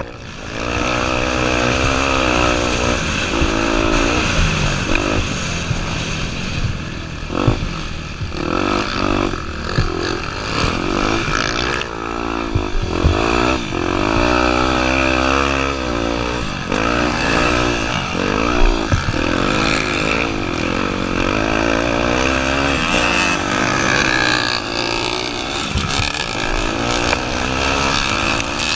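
Honda Tornado 250 dirt bike's single-cylinder four-stroke engine, revving up and falling back again and again as it is ridden, its pitch rising and dropping with throttle and gear changes. A few sharp knocks break in along the way.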